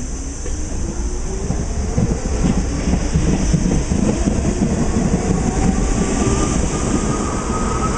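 New York City Subway R44 car accelerating, its Westinghouse traction motors whining and climbing in pitch over the rumble of wheels on rail.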